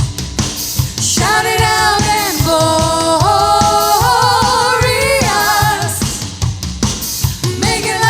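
Worship band music: sung melody with held, wavering notes over a steady drum beat.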